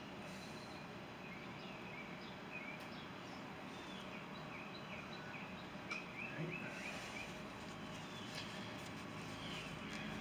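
Small birds chirping repeatedly over a faint steady hiss, with a single sharp click about six seconds in.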